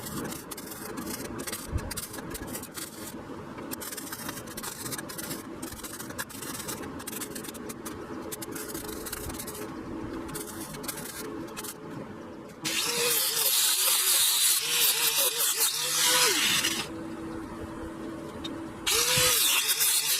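Metalwork on a Jeep's sheet-metal body while holes are being welded shut: a long stretch of dense crackling and sputtering, then two louder bursts of hissing tool noise of a few seconds each, the first starting about twelve seconds in.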